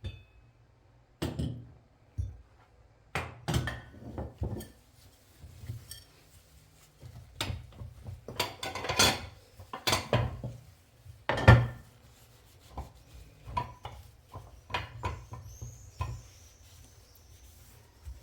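Irregular knocks, taps and clatter of household objects being handled and set down, with the busiest and loudest stretch in the middle.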